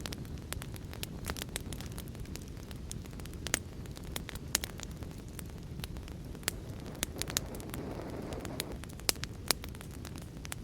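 Wood fire crackling, with scattered sharp pops, over a steady low rushing of heavy rain. The rushing swells briefly about three quarters of the way through.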